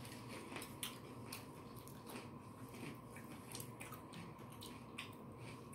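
Faint chewing and crunching of a stuffed sweet bell pepper, with small irregular crunchy clicks.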